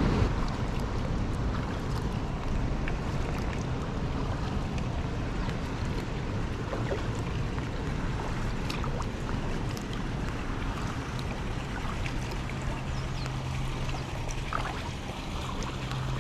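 Steady rush of water, with small drips and splashes from a kayak paddle. A low steady hum joins about twelve seconds in.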